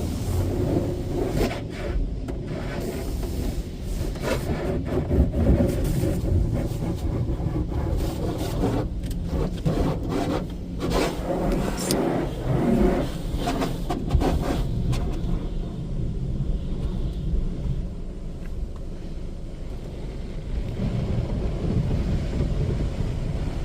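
Cloth brushes of an automatic tunnel car wash rubbing and scrubbing across the car's body in irregular strokes, over a steady low rumble, heard from inside the car. The scrubbing eases about two-thirds through, leaving mostly the rumble.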